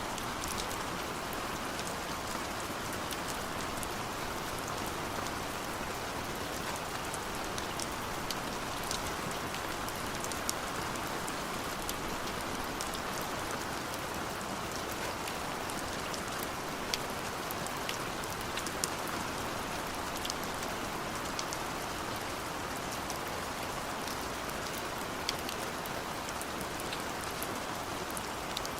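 Steady rainfall, with single drops ticking sharply on a hard surface here and there.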